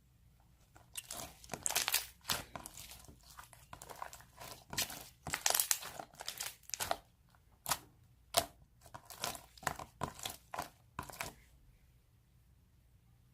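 Crinkling and rustling of something being handled, in irregular bursts that start about a second in and stop shortly before the end.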